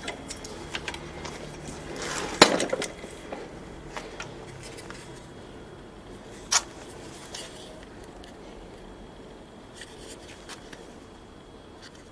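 Metal tools and mower parts being handled, clinking and knocking now and then. The loudest is a knock about two and a half seconds in, with a sharp click a few seconds later.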